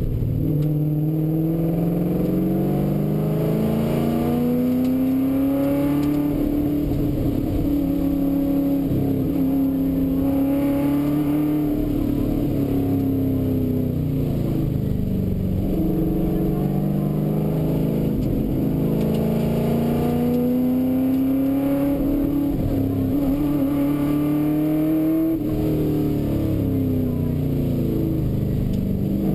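Ford XY Falcon GT replica rally car's engine heard from inside the cabin at full stage pace. The engine note climbs for several seconds under hard acceleration, then drops back as the car slows for bends, and does this twice.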